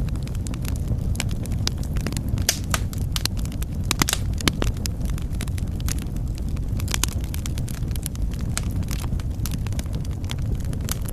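Fire in a fireplace crackling, with frequent sharp, irregular pops and snaps over a steady low rumble.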